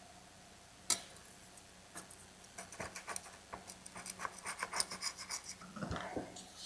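Light scratching and small clicks of hand work on a chainsaw's crankcase, with a sharper click about a second in and the scratching growing quicker and denser in the middle seconds.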